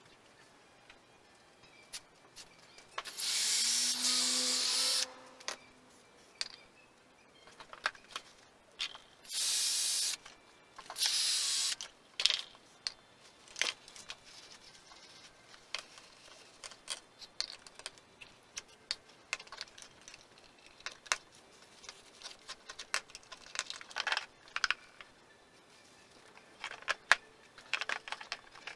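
Workshop tool work: three loud hissing bursts, the first about two seconds long with a low hum under it, then two shorter ones, among many scattered clicks and knocks of tools and parts.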